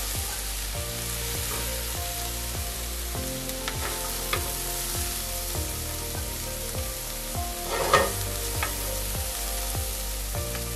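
Cauliflower fried rice sizzling in a pan while a fork scrapes and scoops it out onto a plate, with scattered light clicks of the fork on pan and plate and a louder clatter about eight seconds in.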